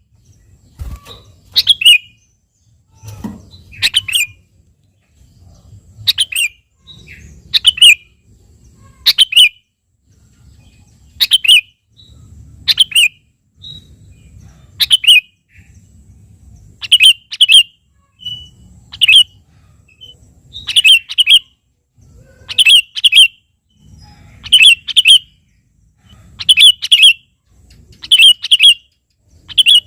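Sooty-headed bulbul (kutilang) calling loudly and repeatedly, one short bright call every second and a half to two seconds, the calls coming in quick pairs in the second half.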